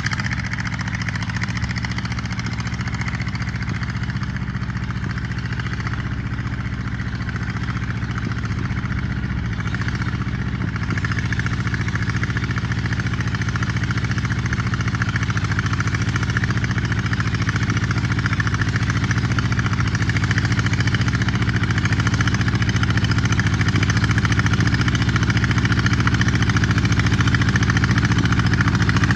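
1955 Allis-Chalmers CA tractor's four-cylinder engine running steadily while pulling a disc harrow, growing somewhat louder about eleven seconds in.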